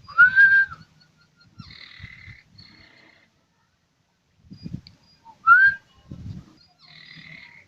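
American Singer canary singing: two loud whistled notes that rise and then hold, each followed by buzzy trills, with soft low knocks in between.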